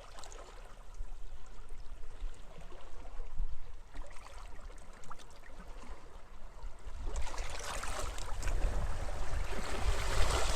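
Small waves lapping and trickling on a beach, with wind buffeting the microphone as a low rumble. About seven seconds in, a bigger wave washes in and the hiss of surf grows louder.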